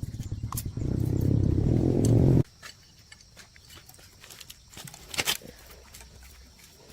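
Diesel engine running with a fast chugging beat that grows louder, then cut off abruptly about two and a half seconds in. After that only faint clicks, with one brief louder tick about five seconds in.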